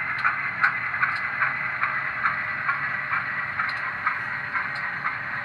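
LokSound decoder's diesel engine sound for an HO-scale GE U25B, played through the model's small speaker, running down in its shutdown sequence after the sound is switched off with F8. A regular tick about two to three times a second runs through it as it fades gradually.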